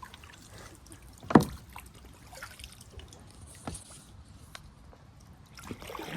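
Kayak drifting and paddling on a river: quiet water sounds, with one sharp knock about a second and a half in and a couple of lighter taps later.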